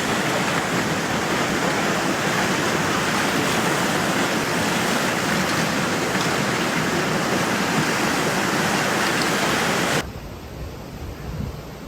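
Flash-flood water rushing in a steady, loud wash of noise. About ten seconds in it cuts off suddenly to a much quieter hiss with a low rumble.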